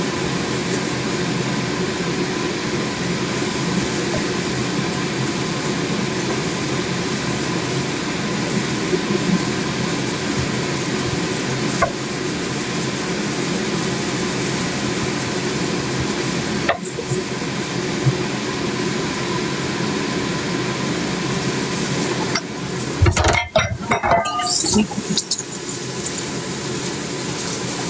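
Cooking sounds: a steady mechanical hum under occasional single knocks, then a short stretch of pots and utensils clattering near the end.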